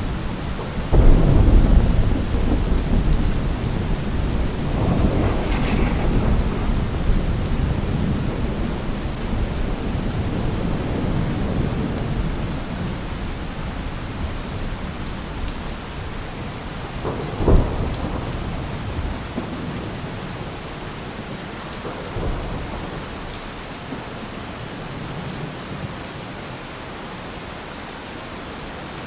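Thunderstorm: steady heavy rain with rolling thunder. A loud rumble breaks about a second in and rolls on for several seconds, a sharper thunderclap comes past the middle, and the rumbling dies down toward the end, leaving the rain.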